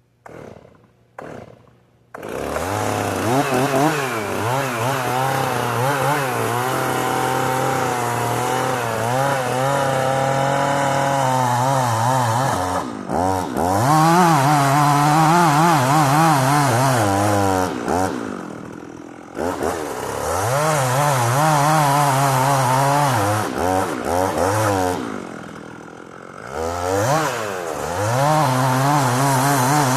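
Stihl two-stroke chainsaw starting after two short bursts, then running at high revs through a felling back cut, its pitch wavering under load and dropping back briefly three times before revving up again.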